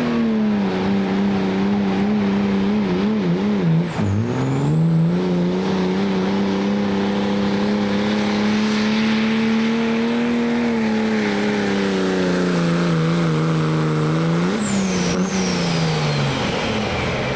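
A work stock diesel pickup truck pulling a sled under full load, its engine held high with a loud turbo whistle above it. About four seconds in the engine note dips sharply and then climbs back. Near the end the turbo whistle drops away and the engine lets off.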